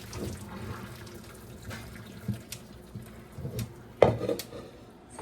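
Hot water from a pot of boiled elbow macaroni pouring into a kitchen sink as the pasta is drained, with small clicks throughout. A louder clank of the pot or colander about four seconds in.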